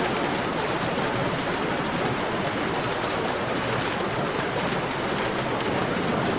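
Heavy rain falling steadily: a dense, even hiss with the fine patter of individual drops.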